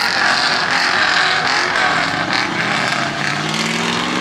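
A car engine revving, its pitch rising over the second half, over a steady loud noise.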